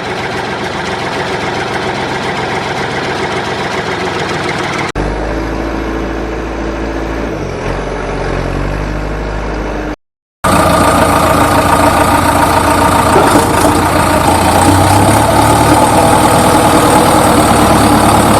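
An engine running steadily. The sound changes abruptly about five seconds in, breaks off in a short silence near ten seconds, then comes back louder.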